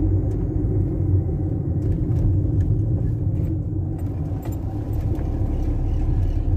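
Fiat Fiorino 1.4's four-cylinder engine and road noise heard from inside the cab while driving, a steady low rumble. From about two seconds in it comes with a few light clicks or rattles.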